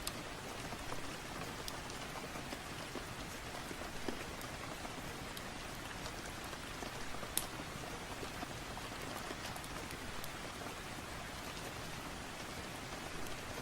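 Steady rain with a wood fire crackling, a few sharp pops scattered through it, the loudest about halfway through.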